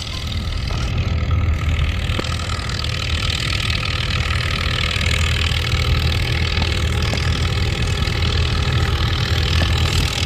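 Antique farm tractor's engine running steadily with a deep, low note, growing a little louder over the first couple of seconds and then holding even.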